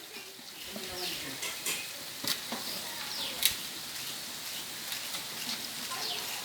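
Chicken curry masala frying in a pot with a steady sizzle. A metal ladle knocks against the pot twice, a little past the middle.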